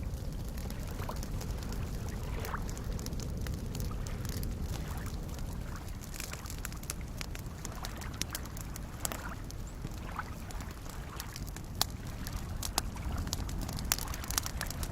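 Wood campfire crackling, with sharp pops and snaps that come more often in the second half, over a steady low wash of small lake waves lapping.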